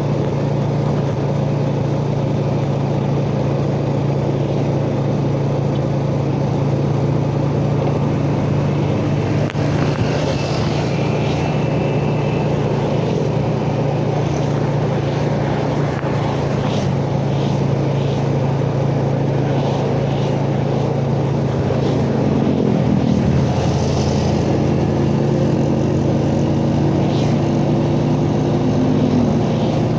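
Yamaha Jupiter Z underbone motorcycle's single-cylinder four-stroke engine running steadily on the move, with road and wind noise. About three-quarters through, the engine note dips, then climbs gradually as it picks up speed again.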